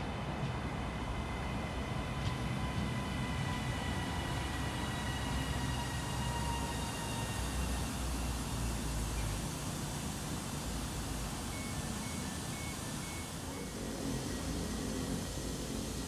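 Train running through a station with a steady rumble and a high whine made of several tones that sinks slightly in pitch and fades over the first half. A short run of faint beeps follows about twelve seconds in.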